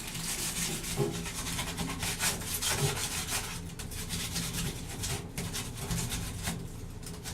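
Crumpled aluminium foil scrubbing a Coke-wetted chrome exhaust pipe in quick, uneven back-and-forth strokes: the foil-and-Coca-Cola method of rubbing rust off chrome.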